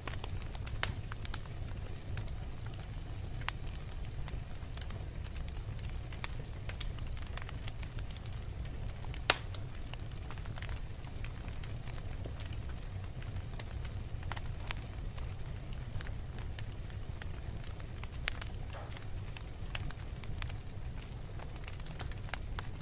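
Wood logs burning in a fireplace: a steady low rumble of the flames with frequent sharp crackles, and one loud pop about nine seconds in.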